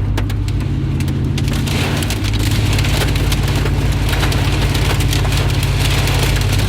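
Heavy rain hitting a car, heard from inside the cabin over a steady low hum of the engine and road; the rain grows louder about two seconds in.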